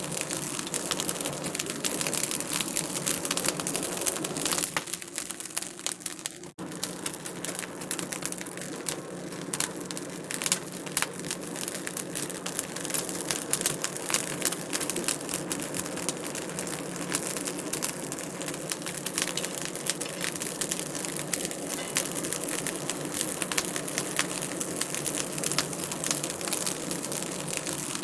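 Wood fire crackling steadily, a dense run of small snaps and pops. It thins briefly about five seconds in and cuts out for an instant a little later.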